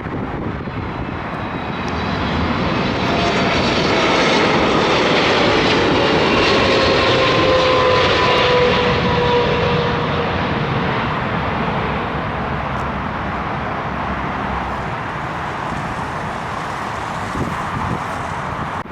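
Arriving airliner passing close by on approach, its engine noise swelling to a peak and then easing off, with whining tones that fall in pitch as it goes past.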